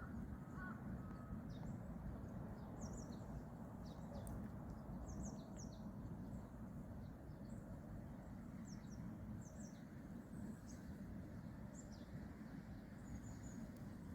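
Small birds chirping on and off, short high chirps scattered throughout, over a steady low outdoor background rumble.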